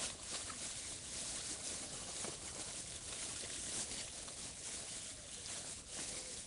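Steady rushing of a river flowing over its bed, with a few faint clicks of wood being handled.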